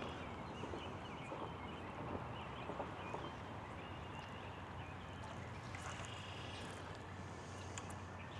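Light rain falling, a steady soft hiss with scattered faint drop ticks.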